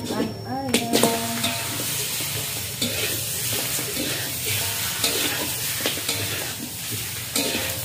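Chicken pieces sizzling in a large wok of frying spice paste over a wood fire, stirred with a metal spatula that scrapes and clatters against the pan. There are a few brief pitched sounds in the first second.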